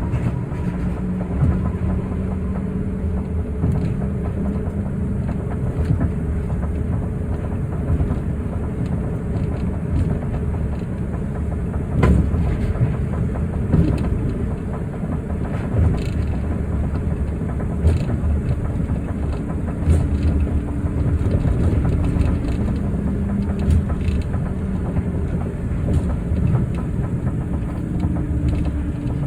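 Osaka Metro New Tram rubber-tyred automated train running between stations, heard from inside the car: a steady rumble with a motor hum and a short knock about every two seconds.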